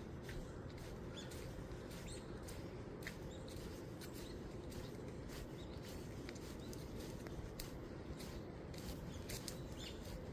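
Small songbirds chirping in short, high notes, scattered through, faint over a steady low background noise.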